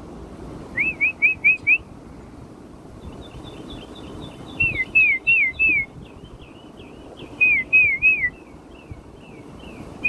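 Birds singing: three phrases of four or five quick up-and-down whistled notes, with fainter, higher chirps between them.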